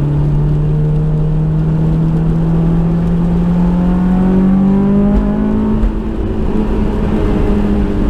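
Honda S2000's four-cylinder engine and exhaust under acceleration, the engine speed climbing steadily for about five seconds, then easing off slightly and holding.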